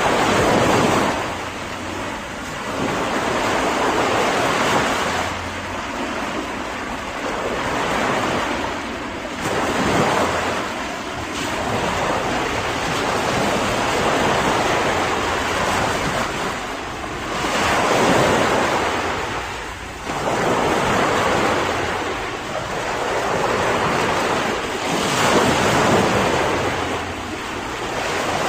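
Ocean surf: waves breaking and washing in, swelling and falling away in surges every few seconds, with a steady rush of water in between.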